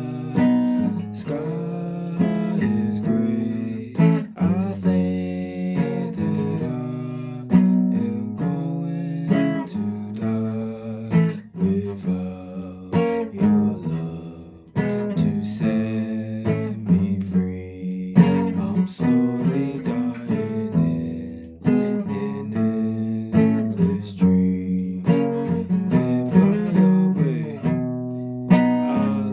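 A guitar being played: picked notes and strummed chords in a steady run.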